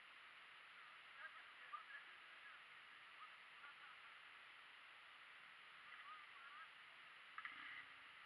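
Near silence: a steady faint hiss with a few faint, short bird chirps scattered through, and a brief light rustle near the end.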